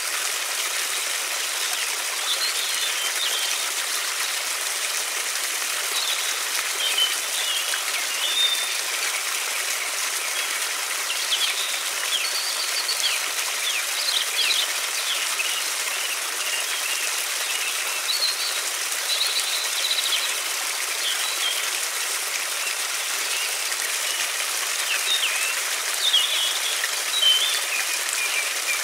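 Steady rush of a flowing river, with songbirds chirping in short bursts at intervals over it.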